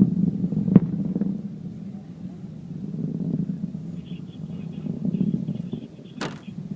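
Distant rocket launch: a low, uneven, crackling rumble from the climbing rocket's engines, a little louder in the first second and then easing off. A sharp click comes just under a second in and another near the end.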